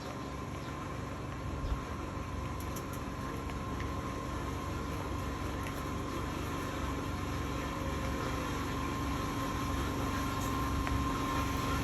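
Steady low background rumble with a faint steady hum, growing slightly louder towards the end.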